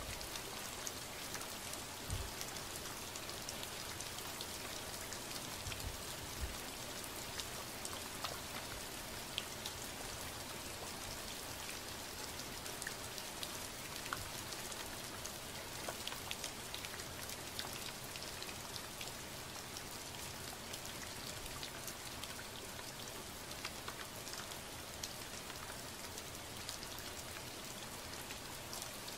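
Steady rain falling: a constant hiss dotted with the ticks of individual drops.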